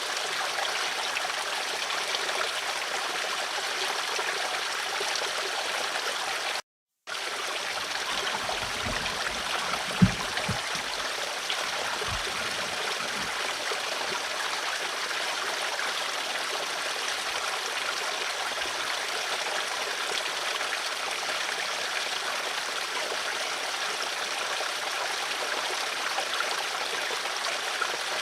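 Flowing stream water rushing and babbling steadily. It cuts out to silence for a moment about a quarter of the way in, and a few low thumps follow, one sharp thump standing out about ten seconds in.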